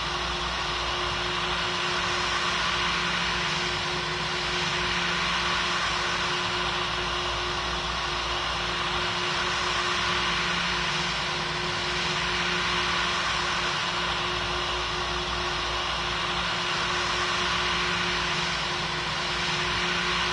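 Steady cabin noise inside a Boeing 777: an even rush of engine and airflow with a constant low hum, unchanging throughout.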